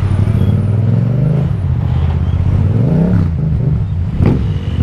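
Yamaha MT-07's 689 cc parallel-twin engine with an Akrapovic exhaust, running under way. The engine note rises and falls about three seconds in, and a quick sharp rev blip comes a little after four seconds.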